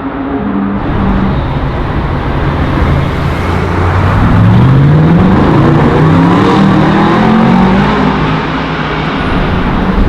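High-performance car engine accelerating hard. It holds a steady note, then its pitch climbs through one gear and, after a drop at the shift, climbs through the next.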